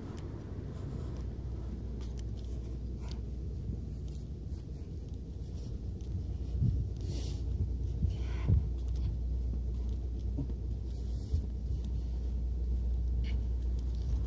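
Osaka City Bus diesel engine running at the stop, a steady low rumble, with a few light knocks and two short hisses around the middle.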